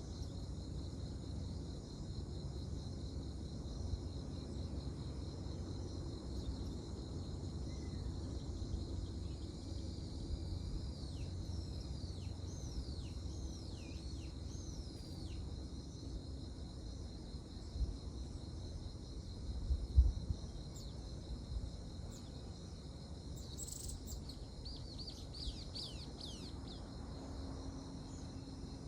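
Crickets chirring steadily in the dark, with birds calling in short falling chirps over a low outdoor rumble. About two-thirds of the way through, a couple of dull low thumps stand out as the loudest sounds.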